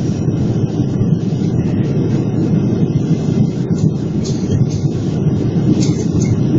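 Cabin noise inside a Boeing 777 on approach to land: a steady low rumble of airflow and jet engines.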